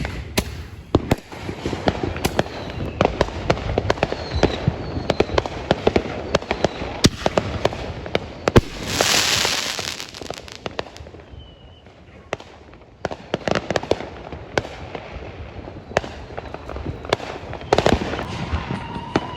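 Fireworks and firecrackers going off: many sharp bangs and crackles in quick succession, with a loud hiss lasting about two seconds near the middle.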